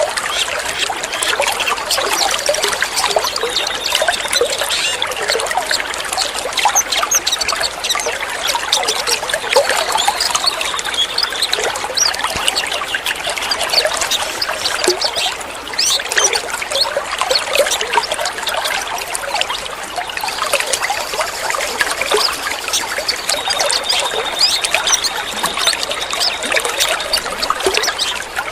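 Running water trickling and splashing steadily, with many small droplet clicks.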